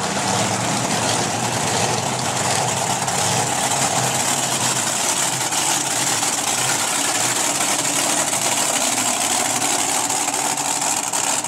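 Monster truck engine idling and running steadily, a deep, even rumble with a loud, hissy upper edge and no pauses.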